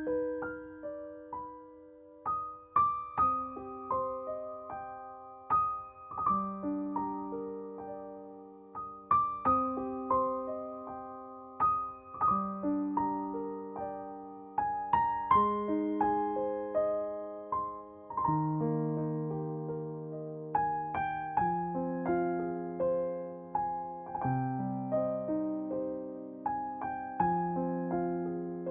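Background piano music: a slow, gentle melody of single struck notes over lower notes, each note ringing and fading.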